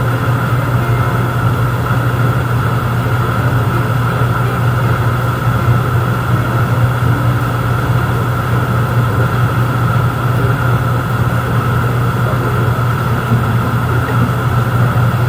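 An engine running steadily at constant speed, with a strong low hum and no change in pitch; it cuts off abruptly just after the end.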